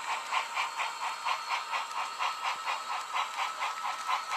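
HO-scale model train running, with an even hissing chuff about four times a second over a faint steady whine.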